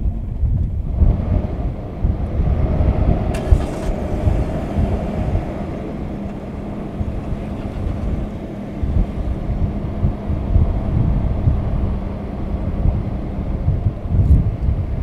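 Vehicle engine running at low speed, heard from inside the cab as a steady low rumble with a faint hum, and a brief knock about three and a half seconds in.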